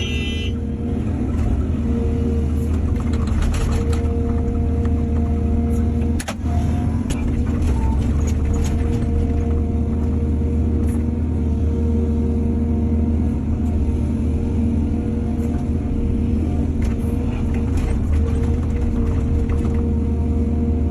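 Excavator's diesel engine running steadily under load, with a steady whine over the drone and scattered clanks and knocks. The sound dips briefly about six seconds in.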